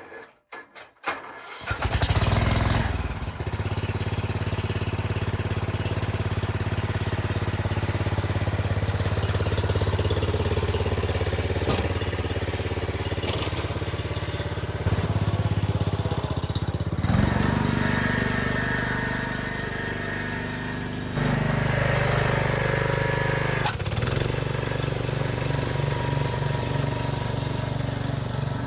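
A riding mower's replacement engine is cranked with a few short turns and catches about two seconds in. It then runs steadily, with changes in its note around the middle and a faster, pulsing beat near the end.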